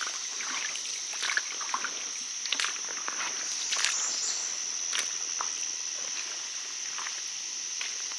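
Steady high-pitched insect chorus holding one pitch, with scattered irregular crackles and snaps, as of footsteps through brush, over it.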